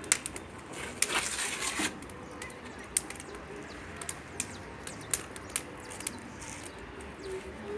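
Wood bonfire catching alight, crackling and popping with sharp, irregular snaps, and a brief rush of noise about a second in.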